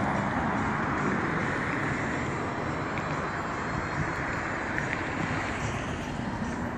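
Supercharged Chevrolet Camaro SS V8 running steadily with a low rumble, with some wind noise on the microphone.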